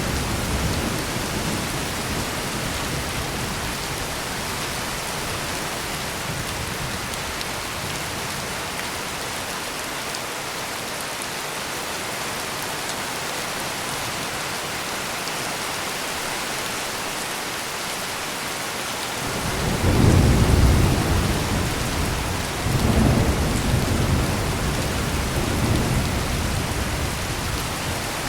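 Heavy rain falling steadily, with thunder: a low rumble dies away in the first seconds, then a loud clap of thunder rolls in about two-thirds of the way through and rumbles on in swells.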